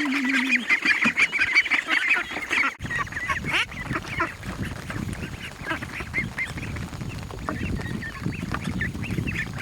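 A flock of ducks calling over and over in short, overlapping honks and quacks. A little under three seconds in, a low steady rushing noise joins underneath the calls.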